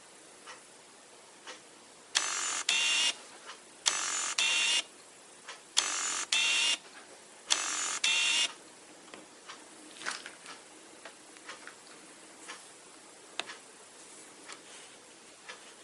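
Tamron AF 28-75mm f/2.8 zoom lens's autofocus drive whirring in four pairs of short grinding runs, each pair a quick drive one way and back, followed by a few small clicks. The owner finds the autofocus noise weird and is unsure whether it is normal.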